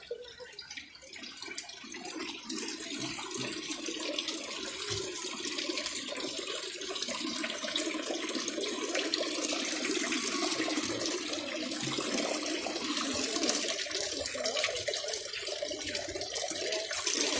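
Rushing water from the Ain Asserdoune spring and its cascades, swelled by rain, growing louder over the first few seconds and then steady.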